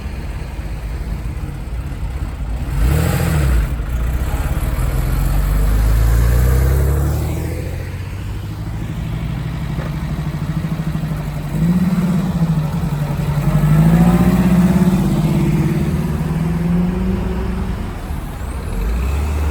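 Cars pulling away one after another, their engines accelerating past. There is a short rev about three seconds in, and another engine rises and falls in pitch through its gears from about twelve to fifteen seconds in.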